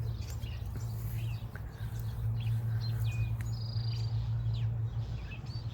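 Songbirds, starlings among them, giving many short, agitated chirps and calls, with a buzzy held note about three and a half seconds in. The birds are upset at a nest raid by a predator, which the owner takes for a weasel. A steady low hum runs underneath.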